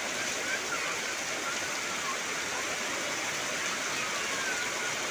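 Heavy rain falling steadily on trees and foliage, a dense even hiss, with a few faint chirps heard through it.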